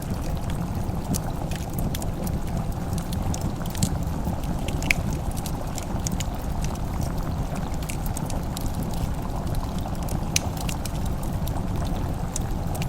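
Wood fire crackling in a fireplace: scattered sharp pops and clicks over a steady low rumble.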